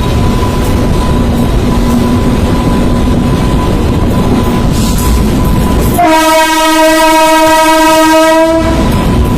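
A train running with a loud, steady rumble, and about six seconds in its horn sounds one steady note for nearly three seconds.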